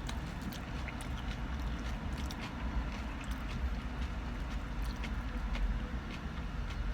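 Close-up chewing of crispy fried onion rings, with small crunches and mouth clicks, over a steady low rumble.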